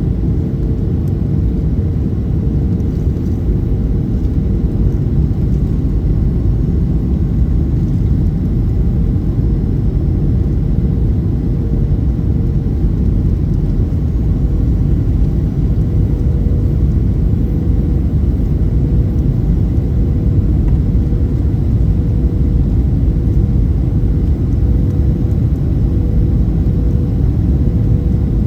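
Cabin noise inside a Boeing 737-800 airliner on approach: a steady, loud rumble of airflow and its CFM56 turbofan engines, with a faint steady hum held on top.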